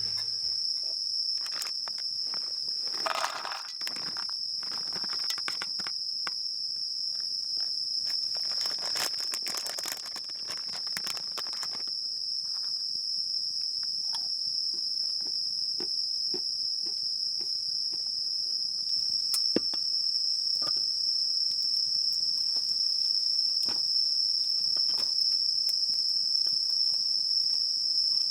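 Steady, high-pitched chorus of insects, with scattered small clicks and crackles over it, busiest in the first half.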